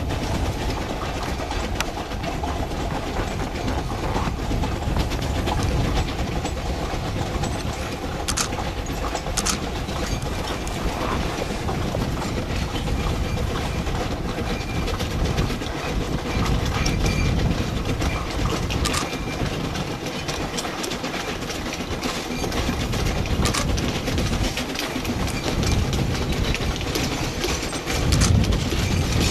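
Coal train hauled by a narrow-gauge C2 steam locomotive running on the track: a steady, loud rumble with wheels clattering over the rails, getting a little louder near the end.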